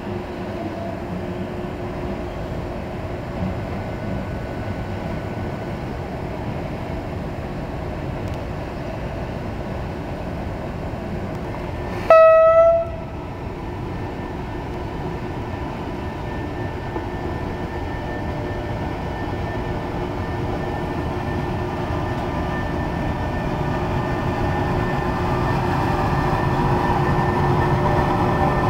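Electric freight locomotive (Rail Traction Company EU43) running past with a long train of open wagons, its running noise growing louder as it comes alongside. About twelve seconds in, one short horn blast sounds.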